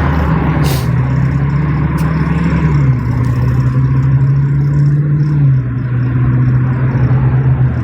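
A motor vehicle's engine running with a steady low hum that steps down in pitch twice, over a rumble of road noise.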